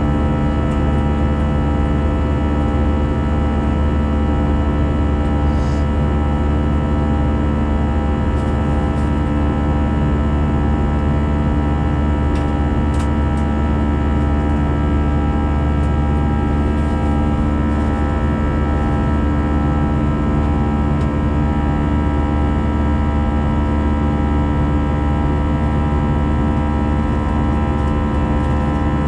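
Cabin noise of an Airbus A320-214 in flight, heard from inside the cabin: a steady rumble from its CFM56 turbofan engines and the airflow, with many steady whining tones over it.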